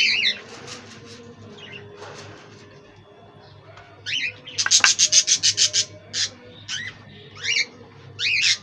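Budgerigars chirping in short calls that bend up and down in pitch, with a quick run of about a dozen sharp notes around the middle.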